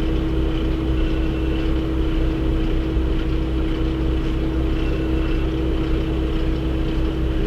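Steady drone of a running vehicle, with a constant hum that holds one pitch throughout.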